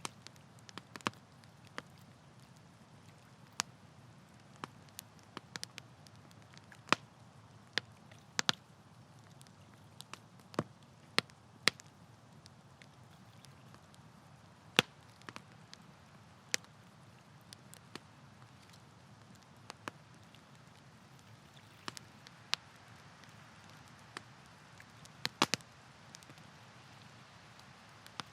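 Campfire crackling: scattered, irregular sharp pops and snaps of burning wood over a soft steady low hiss.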